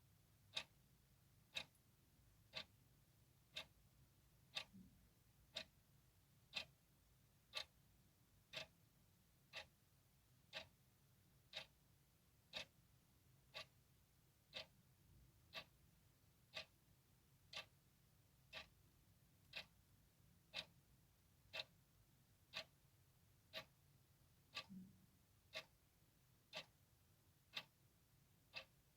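Clock ticking quietly and steadily, one sharp tick about every second.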